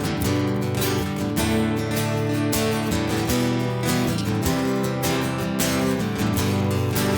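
Acoustic guitar strummed in a steady rhythm, the instrumental intro of a country-rock song with no vocals yet.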